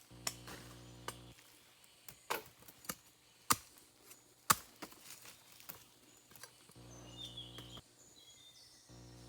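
A series of irregular sharp knocks and snaps, about ten spread over six seconds, two of them louder, like a blade chopping or plant stems being snapped.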